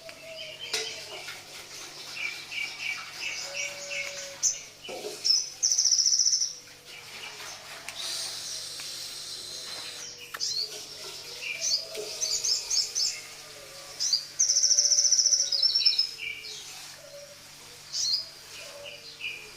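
A sogon songbird singing: repeated short, quick trilled phrases, with two longer, louder buzzy trills, one about five seconds in and one near the three-quarter mark. Fainter, lower gliding calls and a steady low hum sit underneath.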